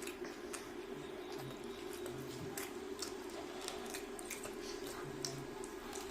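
Eating sounds of fried chicken and rice being chewed: scattered short, moist mouth clicks throughout, over a steady low hum.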